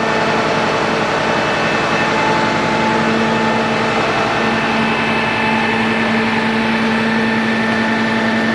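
A large diesel engine idling steadily, with a constant hum of several steady tones over the even pulsing of the engine.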